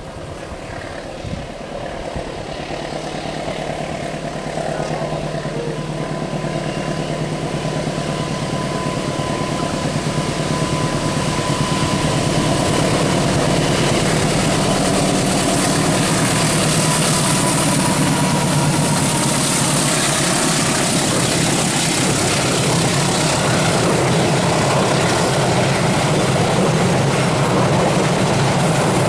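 Long passenger train approaching and rolling past along a curve, growing steadily louder over the first dozen seconds and then holding at a loud, even rumble of wheels on the track.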